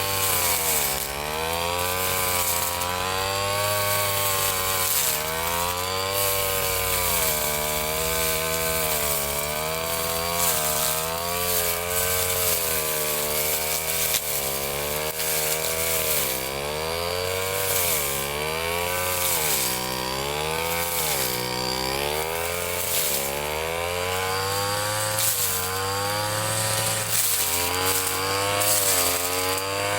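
Ryu 30.5 cc two-stroke brush cutter engine running hard while cutting grass, its pitch repeatedly dipping and climbing back as the blade takes load and frees up.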